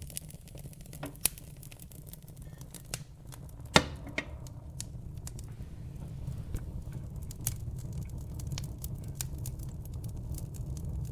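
Wood fire burning in a fireplace: irregular sharp crackles over a steady low rumble of flame, with one loud pop a little under four seconds in.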